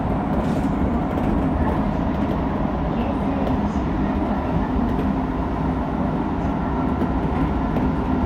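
Keisei 3000 series electric commuter train running on elevated track, heard from inside the driver's cab: a steady rumble of wheels on rails and running gear.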